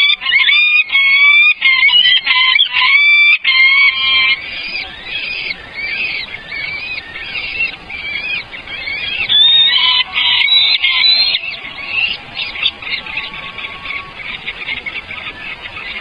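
Birds calling: a string of loud, high-pitched calls, thickest in the first four seconds and again around ten seconds in, giving way to a fainter, rapid chatter near the end.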